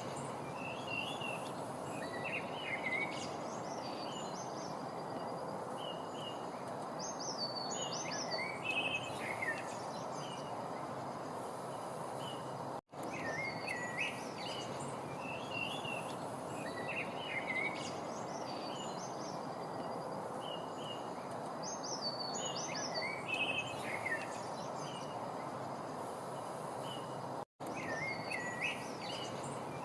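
Songbirds chirping and calling in short phrases over a steady rushing background noise. The same stretch of recording repeats about every 15 seconds, with a brief dropout at each join.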